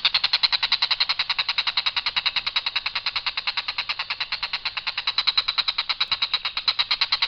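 Tengkek buto kingfisher giving a long, harsh call: a fast, even train of rough notes, about a dozen a second at one steady pitch, without a break.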